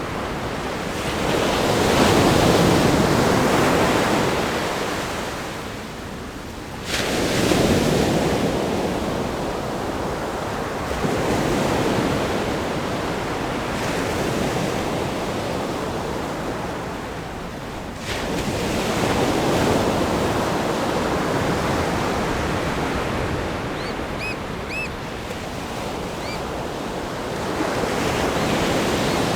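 Ocean waves breaking against a rock groin, surging in again and again every few seconds, with sudden crashes about seven and eighteen seconds in. A few short, high bird calls sound about two-thirds of the way through.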